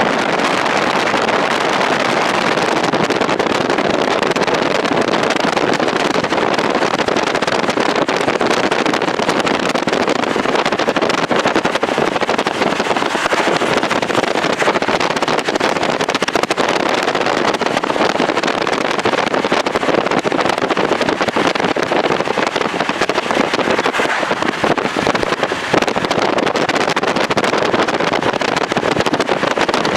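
Steady rushing noise of a moving vehicle with wind on the microphone, no distinct engine note or horn.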